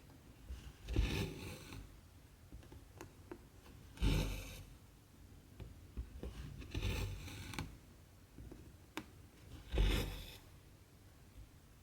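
Cotton embroidery thread being pulled through 14-count cross-stitch fabric, stitch by stitch: a short rasping pull about every three seconds, four times, with faint ticks of the needle on the cloth in between.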